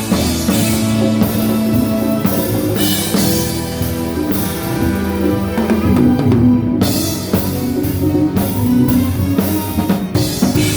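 A seven-piece band playing a passage in rehearsal, the drum kit to the fore with kick, snare and cymbal crashes over sustained pitched instruments.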